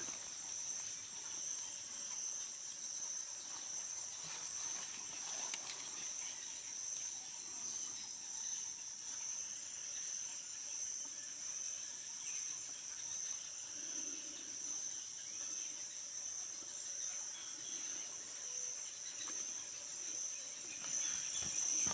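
Steady high-pitched chorus of forest insects, holding two even high tones without a break.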